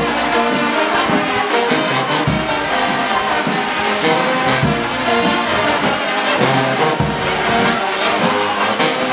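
Brass band music, with trombones and trumpets playing held notes over low drum-like hits.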